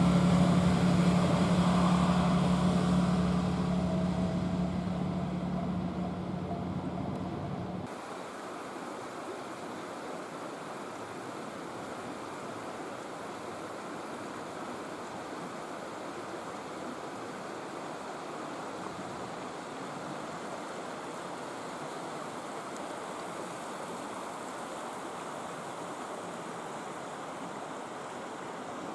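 A train's low steady hum fading as it moves away over about eight seconds. It is cut off suddenly and replaced by a steady, even rushing hiss of outdoor background.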